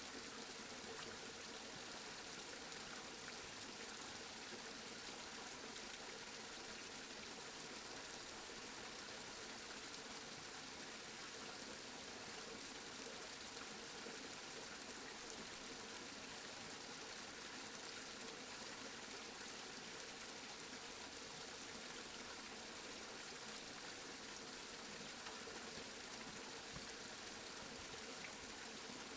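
Steady rain falling, an even hiss with fine patter of drops that does not change.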